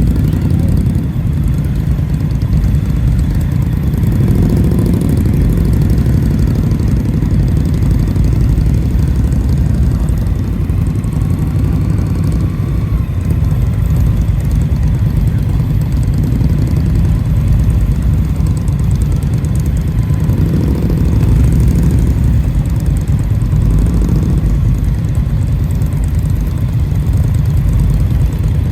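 Indian motorcycle being ridden at a steady pace: continuous low engine and wind noise, swelling briefly a few times.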